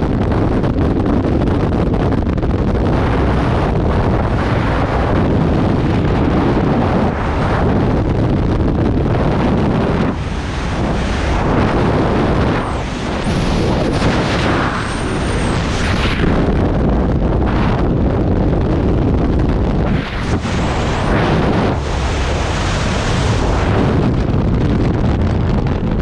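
Loud wind rushing over a skydiver's camera microphone, steady and rough throughout, with a couple of short dips.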